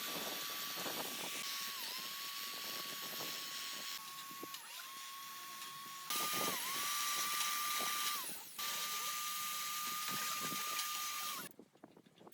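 High-speed electric power tool running with a steady whine, its pitch dipping briefly several times as it takes load. The sound breaks off and resumes a few times and stops near the end.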